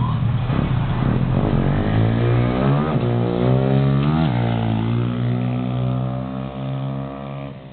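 125cc pit bike engine pulling under load: its note climbs, drops sharply at a gear change about four seconds in, then climbs again and fades away near the end.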